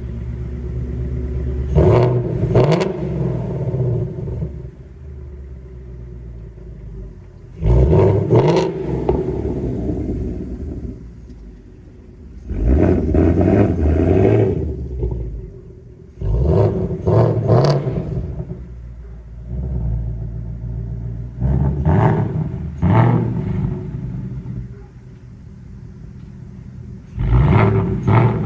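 2019 Ford Mustang Bullitt's 5.0-litre V8, warm, idling and revved in short blips, some doubled, about every five seconds, six times. The exhaust runs through stock headers with catalytic converters, an X-pipe with the resonators deleted, and the factory active exhaust.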